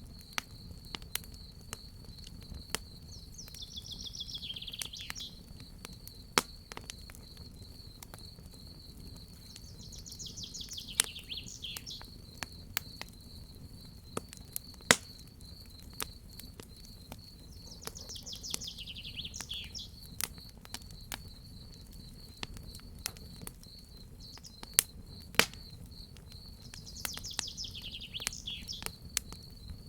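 Crackling fire with frequent sharp pops over a low steady rumble, and a continuous high cricket trill. A bird sings a short falling phrase four times, about every eight seconds.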